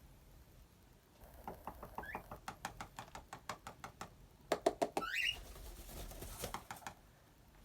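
Cockatiel tapping and pecking at a cardboard box, a run of quick clicks at a few per second, with two short rising chirps, about two seconds in and about five seconds in.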